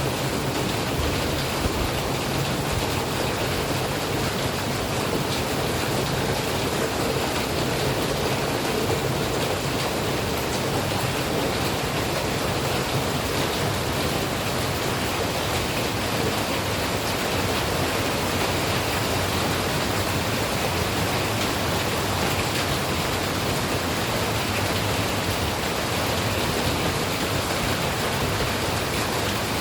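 Steady rain falling, an even, unbroken hiss of water that does not change in strength.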